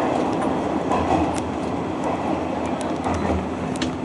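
Hanshin Railway electric train running, heard from inside the car: a steady rumble of wheels on rail, with a few short sharp clicks from the track.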